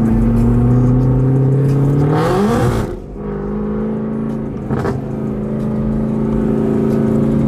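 Car engine running at a steady idle while still cold. About two seconds in it is revved briefly, the pitch rising before dropping sharply back to idle, with a short blip near the five-second mark.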